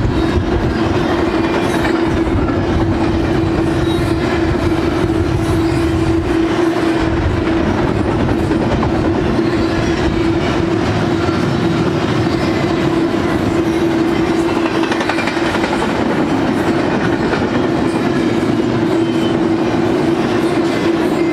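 Double-stack intermodal freight train's well cars rolling steadily past: continuous wheel-on-rail rumble and clatter, with a steady hum underneath.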